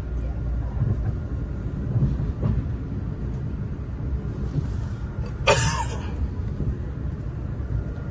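Passenger train running, a steady low rumble heard on board, with one brief sharp noise about five and a half seconds in.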